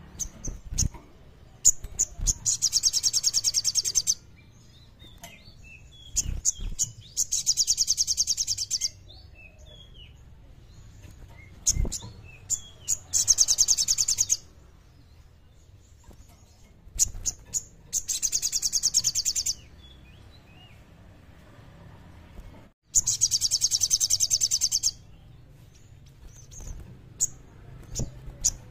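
A sogon songbird singing in repeated bouts about every five seconds. Each bout is a few sharp chirps followed by a fast, very high rattling trill, the clear 'kleper' song that keepers prize.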